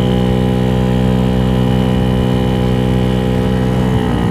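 Venom X18 scooter's GY6 50cc engine, bored out with an 88cc big bore kit, running at a steady speed while riding. The engine note drops slightly near the end.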